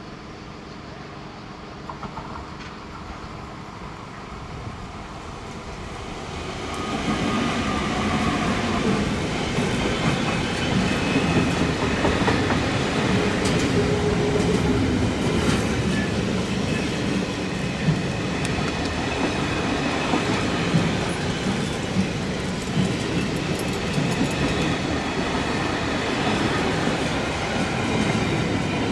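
An electric locomotive hauling a long freight train of container wagons approaches and passes close by. The sound is a low rumble at first, then about six and a half seconds in it turns into the loud, steady rush of the wagons rolling past, with occasional sharp knocks from the wheels on the rails.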